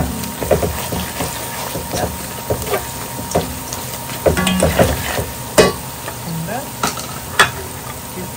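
Sliced onions frying in hot oil in a pot, sizzling steadily while a spoon stirs them, with scrapes and knocks of the spoon against the pot. Two sharper knocks in the second half are the loudest sounds.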